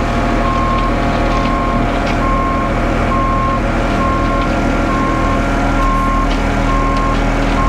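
Truck reverse alarm beeping in a single steady tone about once a second, over the steady running of a ready-mix concrete mixer truck's diesel engine.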